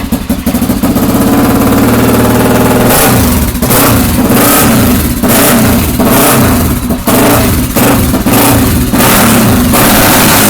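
Honda XR400's single-cylinder four-stroke engine running very loud, its throttle blipped up and down about once a second.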